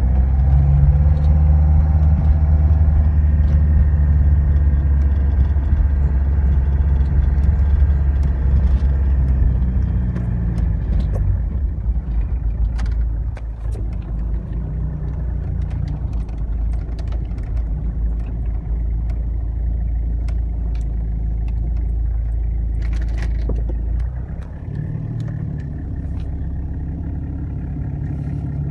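1995 Jeep Cherokee XJ's 2.5 L VM Motori four-cylinder turbo diesel running, loudest for the first ten seconds, then easing off, and dropping lower again about 24 seconds in, with light clicks and rattles over it.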